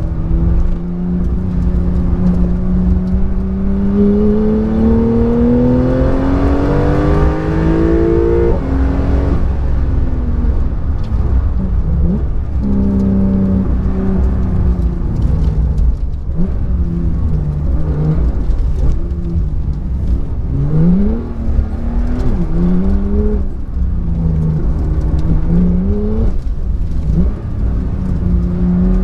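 Car engine heard from inside the cabin while driven hard. The revs climb steadily for about eight seconds and drop at a gear change, then rise and fall repeatedly, with several short sharp rises about two-thirds of the way in. A steady low road rumble runs underneath.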